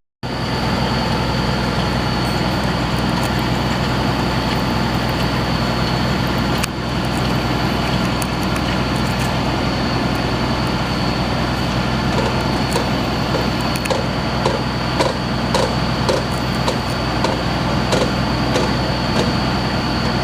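Well-drilling rig running steadily under power, a low engine hum with a constant high whine over it. From about halfway on, irregular light knocks and clicks sound over the running machinery.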